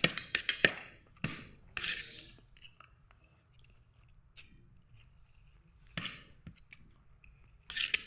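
Eating sounds: cutlery clicking and scraping on plates in a cluster over the first two seconds, then quiet, with two more short scrapes about six and nearly eight seconds in.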